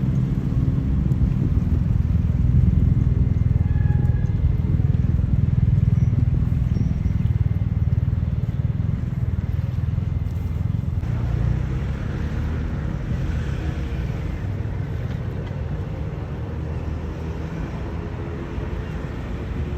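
An engine running with a steady low rumble, easing slightly in level over the second half.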